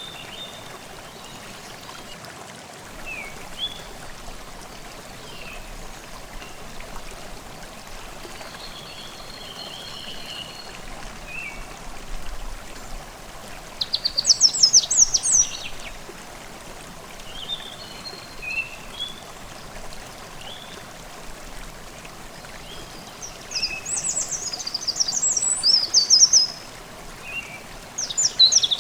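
Forest stream babbling steadily, with songbirds calling over it and two bursts of rapid, high trilling song, one midway and one near the end.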